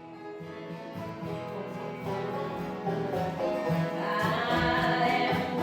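Live acoustic music from a small group of musicians playing together, fading in and growing louder.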